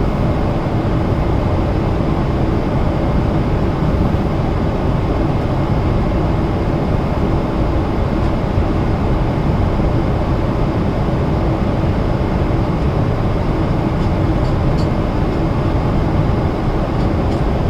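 Steady cabin noise of a Boeing 777-300ER in cruise: an even rush of airflow and engine noise, heaviest in the low end, with a faint steady hum through it.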